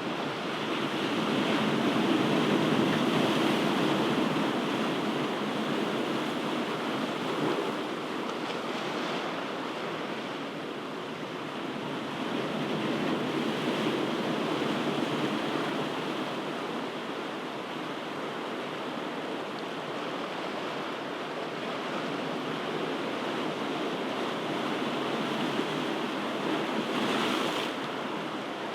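Ocean waves breaking and washing onto shore, a continuous rushing surf that swells and eases slowly, rising to a peak a couple of seconds in and again about halfway through.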